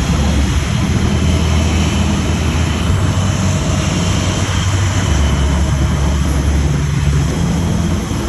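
Jet aircraft engines running steadily: a loud, constant low drone with a faint high whine over it.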